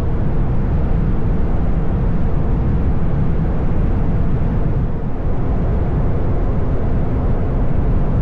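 Motorcycle at road speed: steady wind noise on the microphone, with the engine's even hum underneath.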